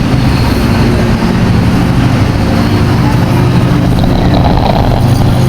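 A train's diesel engine running steadily at idle with a deep, even hum.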